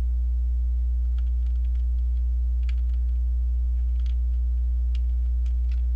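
Steady low electrical mains hum, with a few faint plastic clicks of LEGO bricks being handled and fitted.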